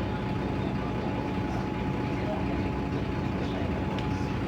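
Mercedes-Benz OM906LA six-cylinder diesel engine of an O500U rear-engined city bus running steadily, an even hum with a thin steady whine above it.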